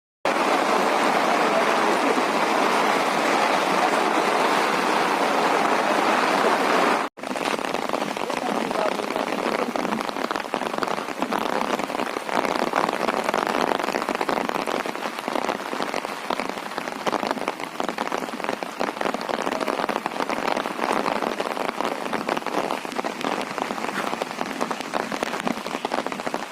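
Heavy rain pouring down, a dense steady hiss of drops pattering on surfaces, broken by a brief cut to silence about seven seconds in.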